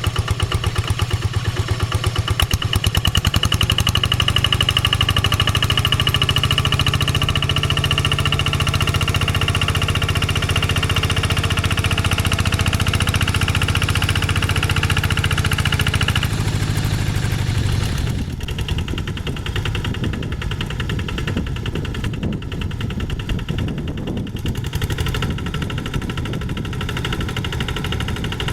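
Diesel engine of a two-wheel hand tractor running steadily under work. About two-thirds of the way through its even note breaks off, and it runs a little quieter and rougher after that.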